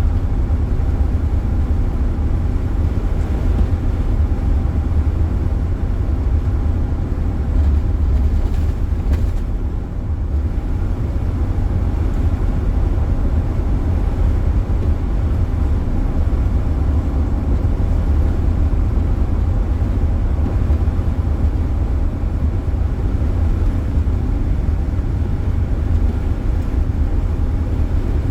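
Steady low rumble of road and wind noise inside a car driving at speed.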